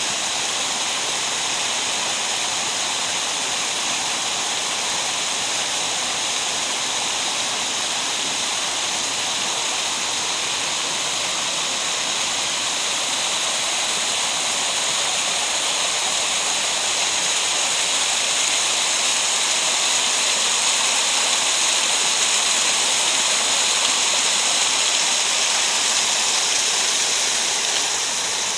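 Steady rush of water in a mountain gorge stream: an even roar with no breaks, growing a little louder in the second half.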